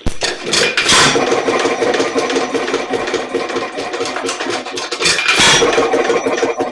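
Nelson Little Jumbo 1 1/2 HP hit-and-miss engine clattering rapidly as it is turned over in a starting attempt, with louder surges about a second in and again near the end.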